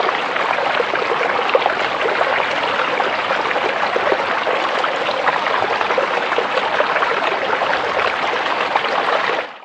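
Creek water running and trickling steadily over rocks, a dense even rush with many small splashes, cutting off at the very end.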